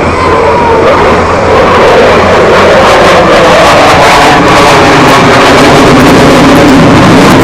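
Eurofighter Typhoon's twin jet engines at full takeoff power, very loud and near the microphone's limit, a dense roar with slowly gliding pitch that swells about two seconds in.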